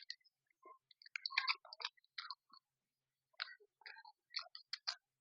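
Close-up chewing and mouth sounds of a person eating fish curry: irregular short wet clicks and smacks in clusters.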